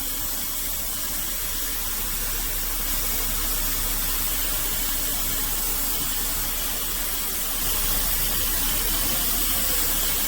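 Steady hiss with a low hum from the Mercedes W124 E320's engine idling, a little louder near the end; the ASD system is being bled with the engine running, but no fluid is coming from the bleed nipple.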